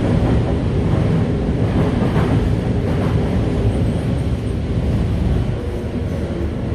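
Running noise inside a Toei 5300-series electric train car: a loud, steady rumble of wheels on rail and car body. Near the end a faint steady whine from the motors comes up under the rumble.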